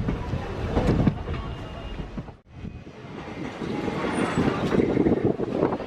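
Passenger train running on the rails, heard from aboard a coach: rumbling wheel and carriage noise with irregular knocks. The sound drops out abruptly about two and a half seconds in, then returns and grows louder.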